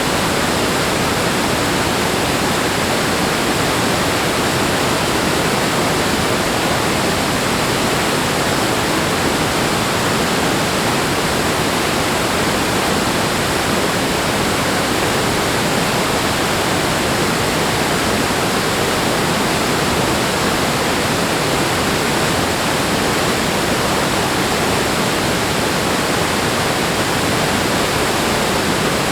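Steady rush of running water, an even, unbroken hiss with no surges or pauses.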